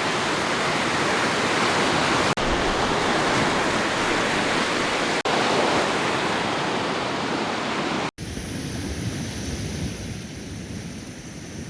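Lake Superior waves breaking on the shore: a steady rush of surf heard in four short clips joined by abrupt cuts, the last about four seconds quieter than the rest.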